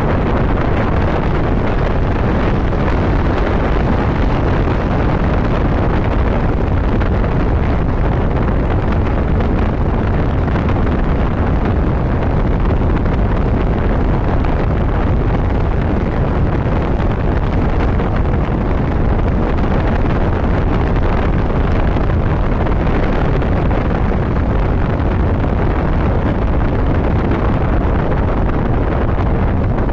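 Steady wind rushing over the microphone of a motorcycle at cruising speed, with the low rumble of the engine and road underneath, holding even throughout.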